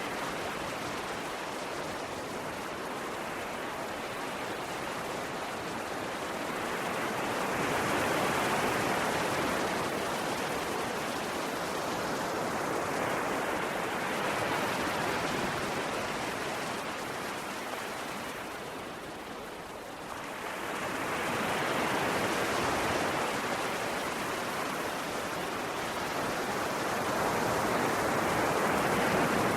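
Ocean surf washing onto a shore: a steady rush of water noise that swells and falls back with each wave, every several seconds, with a lull about two-thirds of the way through.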